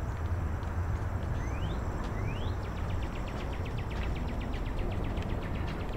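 Steady low outdoor rumble, with a bird's two quick rising chirps about two seconds in, followed by a fast, even trill of high clicks.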